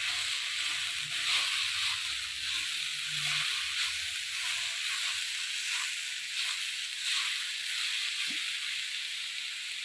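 Grated carrots sizzling in hot oil in a pan, with a wooden spatula stirring and scraping through them in repeated strokes. The carrots are fried down, their water cooked off.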